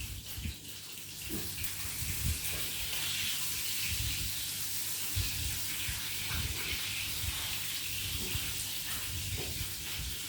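Kitchen tap running at a sink over the steady sizzle of chicken fillets frying in a pan, with a few soft knocks.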